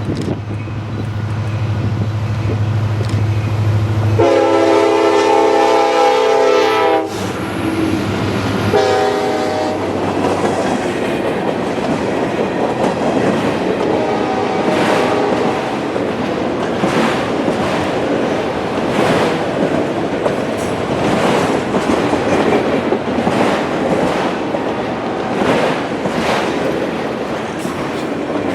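Freight train passing: the diesel locomotive's engine hums, then its air horn sounds one long blast about four seconds in and a short one about nine seconds in. The cars follow with a steady clickety-clack of wheels over the rail joints, about one click a second.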